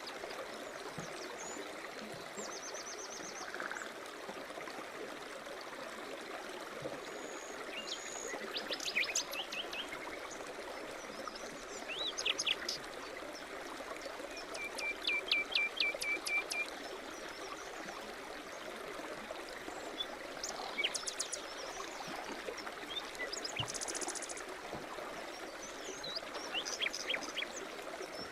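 A small stream running steadily, with several songbirds singing over it: short high chirps and trills scattered throughout, and a quick run of repeated notes about halfway through.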